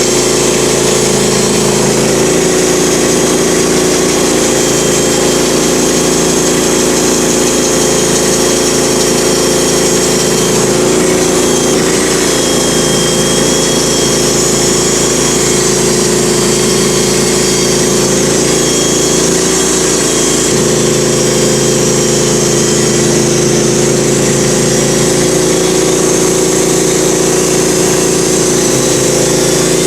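Portable sawmill's engine running steadily at a constant speed while walnut is milled.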